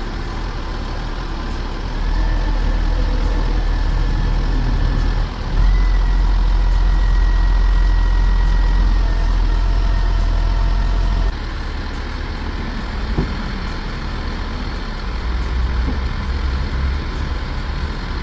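Caterpillar 3126 diesel engine of a Ford F750 dump truck idling. It runs up to a higher, steady speed for several seconds in the middle, with a thin whine over it, then drops back to idle about eleven seconds in.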